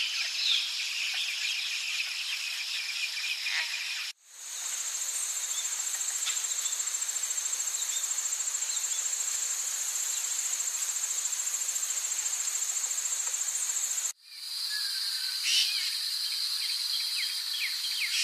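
Rainforest insect chorus: steady high-pitched buzzing and trilling, in three spliced recordings that each end in a sudden cut, about 4 and 14 seconds in. The middle stretch is a single even, very high buzz with a fine pulse. The last stretch has a lower trill with a run of quick descending chirps.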